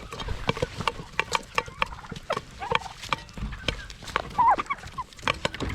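Turkeys pecking rapidly at food in a bowl, a dense run of quick taps and clicks, with short chirping calls among them and a clearer call near the end.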